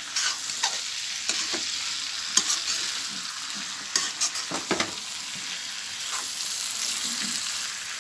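Jackfruit pieces cooking in spice masala in a kadhai, sizzling steadily, while a spatula stirs them with scattered scrapes and knocks against the pan, most of them in the first five seconds.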